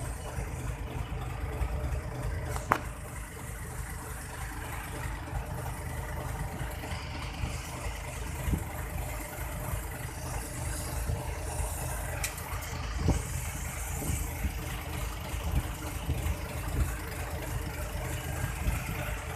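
Boat engine idling steadily, with a few sharp knocks.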